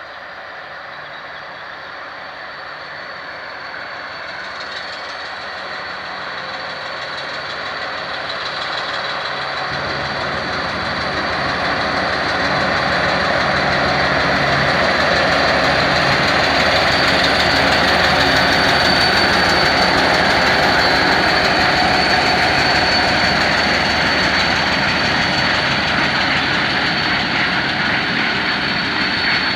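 Two diesel locomotives, an M62 with its two-stroke V12 and a TEM2 shunter, working together to haul a loaded freight train; their engines grow steadily louder as they approach, then hold at full loudness through the second half.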